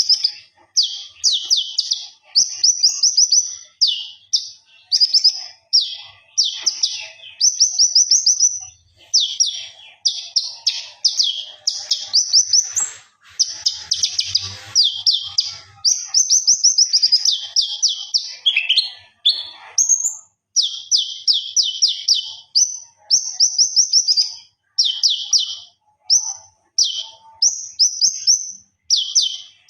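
Konin songbird singing in full, vigorous voice: short, rapid high-pitched trills repeated about once a second with hardly a pause.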